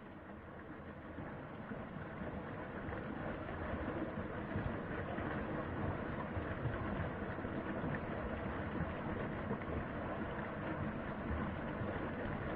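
Mountain stream water rushing over rocks in a steady rush, growing louder over the first few seconds and then holding steady.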